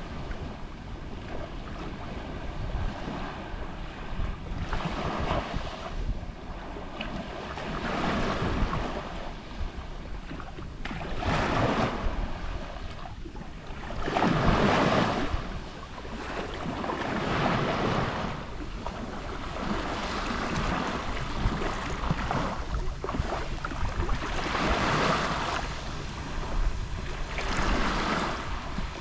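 Small Mediterranean sea waves lapping on the shore, each one swelling and falling away every few seconds, the largest about halfway through. Low wind rumble on the microphone underneath.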